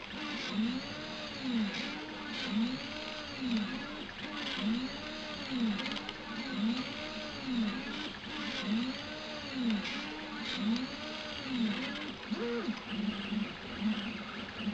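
Stepper motors of a Prusa i3-type (Graber i3) 3D printer whining as the axes move back and forth, the pitch rising and falling in repeated sweeps about once a second. Near the end the sweeps change to short, quicker buzzes.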